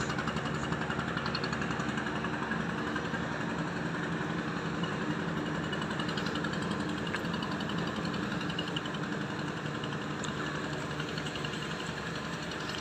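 An engine running steadily at an even speed, a constant low drone with no change in pitch.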